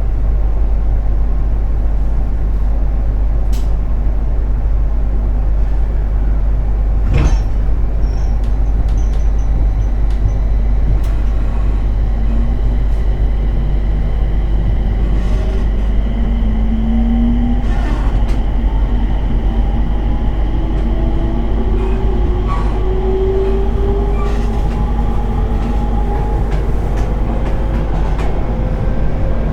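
Interior running sound of a JR 701 series electric multiple unit pulling away: steady rumble, a sharp knock about a quarter of the way in, then from about halfway the traction motors' whine rises steadily in pitch as the train accelerates.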